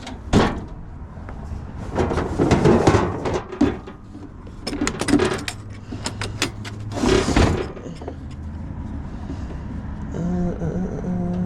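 Metal hand tools and Allen keys clinking and rattling as they are rummaged through, with scattered sharp clicks and rustling. A steady hum comes in near the end.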